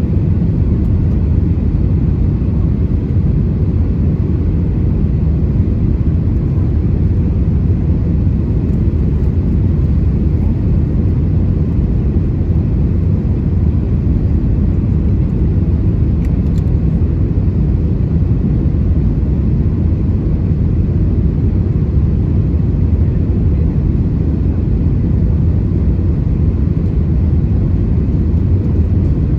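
Steady cabin noise inside an Airbus A319 in flight: its CFM56 engines and the airflow past the fuselage make a loud, even low rumble with a faint hum.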